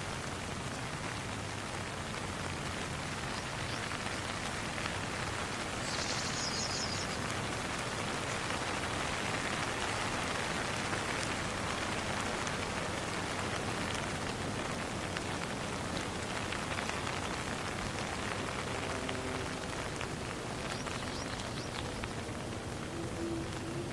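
Steady rain falling as an even hiss. About six seconds in comes a brief high-pitched trill, and faint low pitched tones come in near the end.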